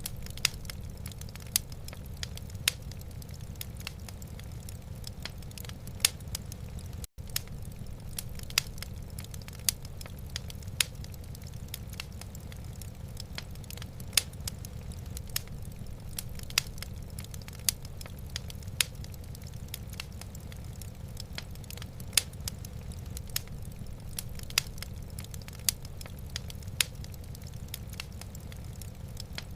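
Wood fire in a fireplace crackling, with irregular sharp pops, a few much louder than the rest, over a steady low rumble. The sound drops out for an instant about seven seconds in.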